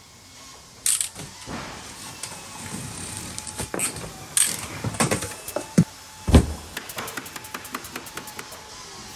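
A cardboard shipping box being cut open and handled: sharp scrapes and rustles of cardboard and packing tape, a heavy thump about six and a half seconds in, then a quick run of small clicks.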